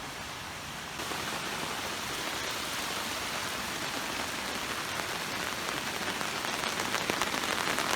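A sudden rain shower setting in: a steady hiss of rain that jumps up about a second in and keeps getting heavier, with more and more single drops pattering toward the end.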